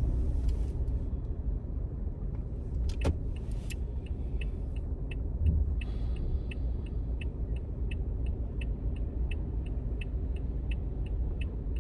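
Steady low road and engine rumble inside a moving car. About three seconds in there is a sharp click. From about four seconds in a turn signal ticks steadily, roughly three clicks a second.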